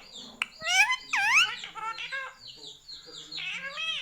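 Pet Indian ringneck parrot squawking, with loud calls about a second in, followed by a run of short high chirps and another call near the end. A sharp click sounds just before the first calls.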